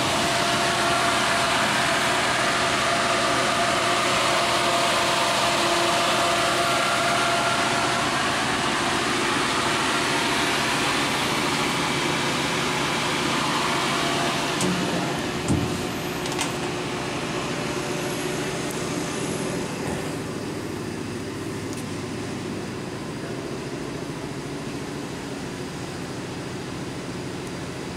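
Steady whirring hum of an idle Amada Pega 244 CNC turret punch and its hydraulic unit. It grows gradually quieter in the second half, with a couple of knocks partway through.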